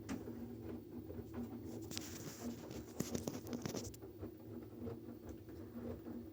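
Washing machine running: a steady low motor hum with scattered light clicks and rustles on top.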